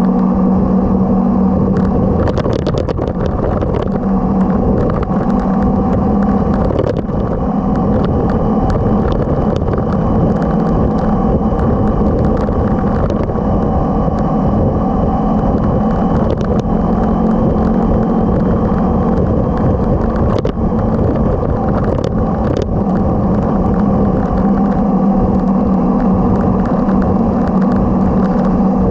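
Motorcycle engine running steadily at a constant pace, with a low rumble underneath and scattered short clicks.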